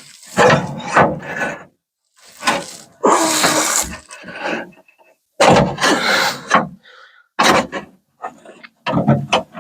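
Repeated knocking, scraping and rattling in a 1950 Ford F1 door as the stuck window glass and its regulator are worked, in several bursts with short gaps between them. The glass has come out of its track on one side.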